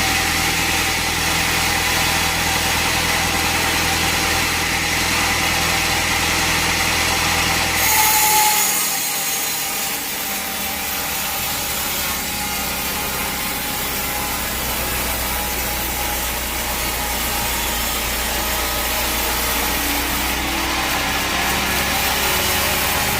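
Bandsaw sawmill running, its blade sawing through a log, with a steady motor hum under a high hissing cut. About eight seconds in the sound changes abruptly, the low hum falling away, then it carries on steadily.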